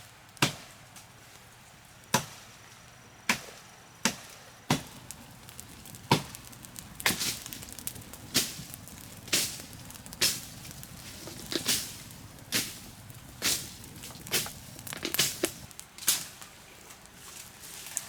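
Repeated chopping blows of a blade into a wooden stake. The sharp knocks come about once a second at first, then faster and less evenly after about seven seconds.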